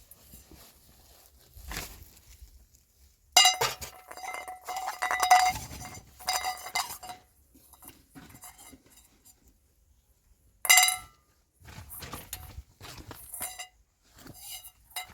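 Metallic, bell-like clinking in several separate bursts, with short quiet gaps between them.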